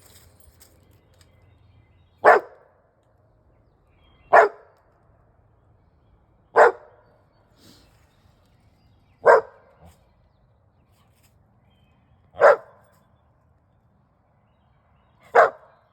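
Australian Shepherd barking: six single barks, spaced about two to three seconds apart.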